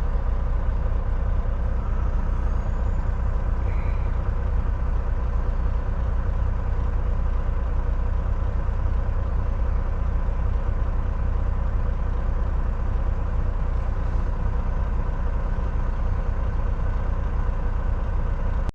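Semi-truck's diesel engine running steadily at low idle, a constant deep rumble.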